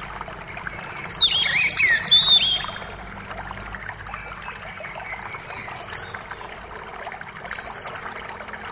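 Creek water running steadily under birdsong: a burst of rapid, sweeping song about a second in, and a short high thin note repeated about every two seconds.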